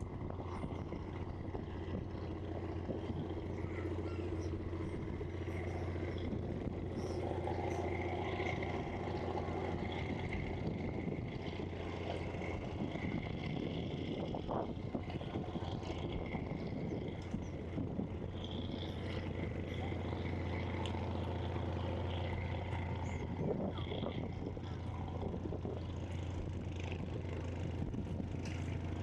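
Outdoor waterside ambience dominated by a steady low engine hum, with faint voices in the background.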